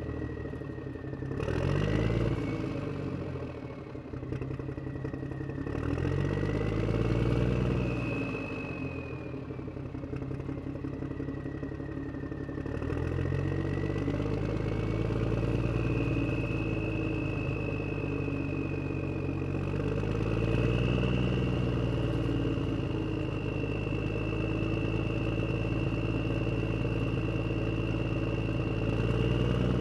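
Electric drive motors and plastic gearbox of an RC HuiNa wheel loader whining. The pitch rises and falls in waves as it speeds up and slows down.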